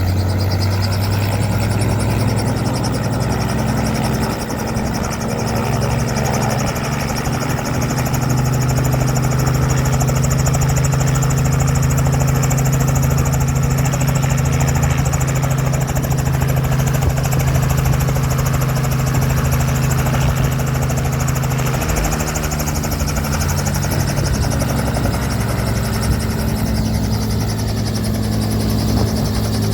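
Aircraft engine running steadily and loudly close by, its note stepping down a little about two-thirds of the way through.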